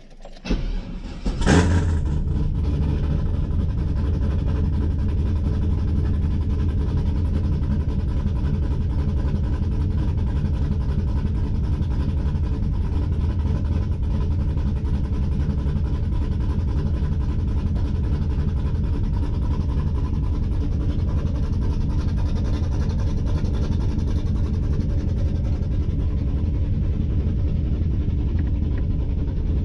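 Chevy S10's swapped-in 5.3 L LS V8 catching and starting about a second and a half in, then idling steadily.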